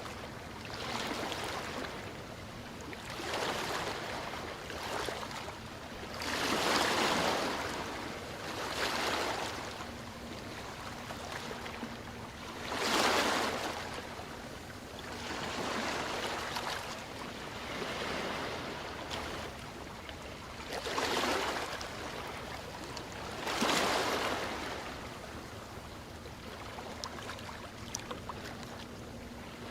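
Ocean waves washing in and drawing back, a hiss that swells and fades every few seconds, with a few bigger waves standing out.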